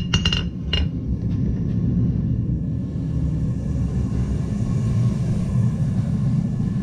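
A few hammer blows ringing on metal at the anvil in the first second, then a steady low rumble.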